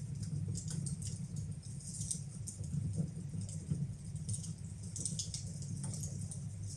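Fire burning in a fireplace: irregular crackles and small pops over a steady low rumble.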